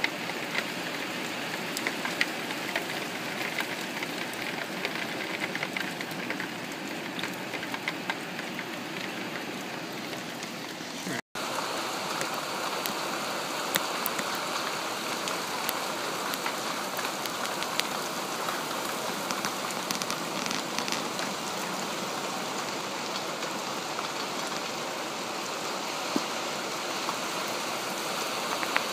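Heavy rain pouring steadily onto a street, with many close drops ticking sharply through the steady rush. The sound breaks off for an instant about eleven seconds in, then carries on.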